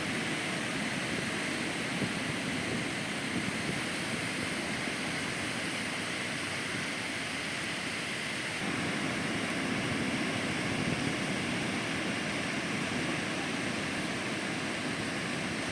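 Ocean surf: a steady wash of breaking waves, a little louder from just past halfway.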